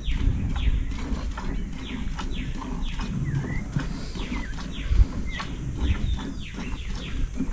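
Birds chirping: many short calls that fall in pitch, several a second, over a steady low rumble, with a single thump about five seconds in.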